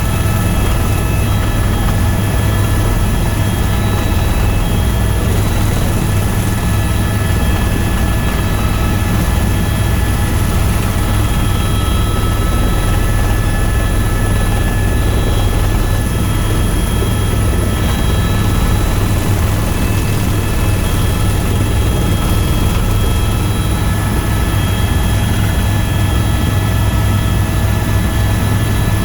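Tour helicopter in flight: a steady, loud rotor and engine drone with several high, steady whine tones over it, unchanging throughout.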